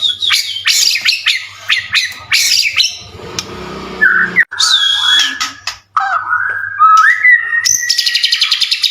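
White-rumped shama (murai batu) singing a loud, varied song of whistles, sweeping notes and sharp chirps, with a harsher passage midway and a fast rattling trill near the end.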